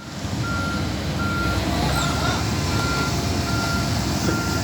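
Backhoe's warning alarm beeping in short single-pitched tones, about one every three-quarters of a second, over its engine running steadily.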